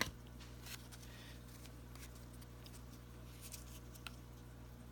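Faint handling sounds of trading cards being flipped and slid through the hands: a light click at the start and a few soft ticks later, over a low steady hum.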